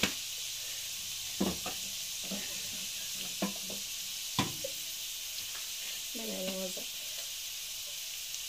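Diced vegetables frying in oil in a nonstick pan, with a steady sizzle. A wooden spatula stirs them, knocking against the pan a few times in the first half.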